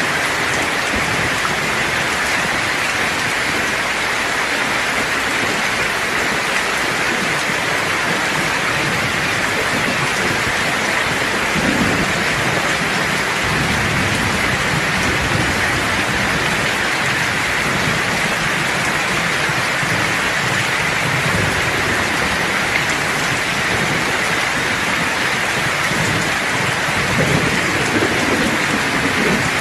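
Steady rain falling in a thunderstorm, with low thunder rumbling about twelve seconds in and again near the end.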